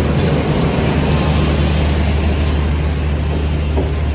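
Passenger train coaches rolling slowly past along the platform, a steady low drone under an even rumble and rattle of noise.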